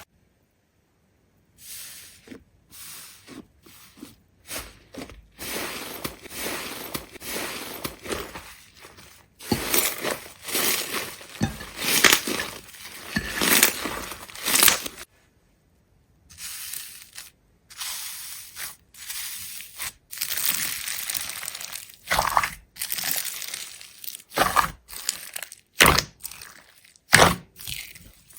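Repeated crunching and crackling in short, irregular bursts, broken twice by about a second and a half of silence, near the start and about halfway through.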